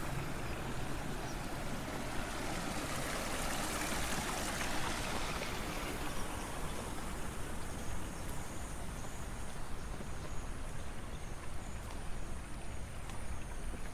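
Water flowing in a rice-terrace irrigation channel: a steady rushing that swells a few seconds in and then eases.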